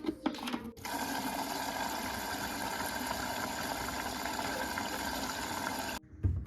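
Water running steadily for about five seconds, starting just under a second in and cutting off abruptly near the end.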